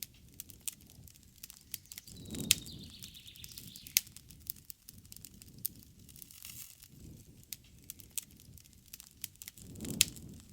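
Wood campfire crackling, with frequent sharp pops and snaps and low swells of burning about two and a half seconds in and again near the end. A bird calls faintly once, a falling note about two seconds in.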